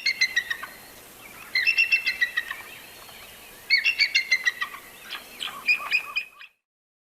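Bald eagle calling: four bursts of rapid, high, piping chitters, the last ending about six and a half seconds in.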